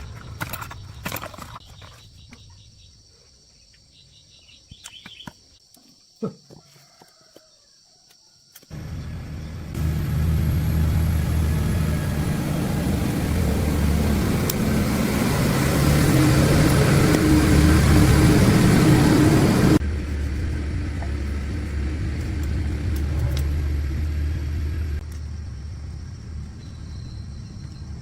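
A restored D24 diesel engine starts up after a few clicks and knocks, then runs with a steady low rumble. It gets louder through the middle, drops back to a lower running level, and cuts off just before the end.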